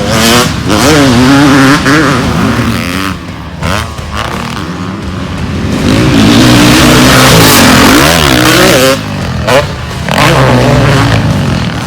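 Motocross bike engine revving up and down over and over as the throttle is opened and closed, loudest a little past the middle.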